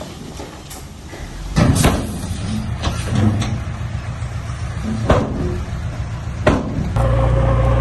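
Heavy vehicle engine running low, with a series of loud clunks and bangs, about six over five seconds. Near the end it gives way abruptly to a steadier, louder engine running.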